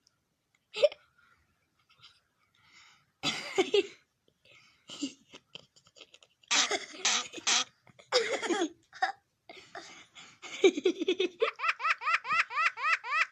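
A talking bird mimicking laughter and other human sounds in short pitched bursts, ending in a quick run of repeated rising-and-falling laugh-like notes, about four or five a second.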